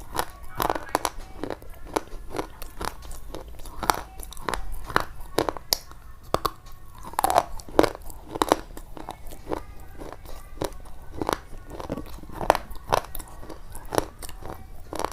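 Repeated crisp crunching, a few irregular crunches every second with short softer stretches between.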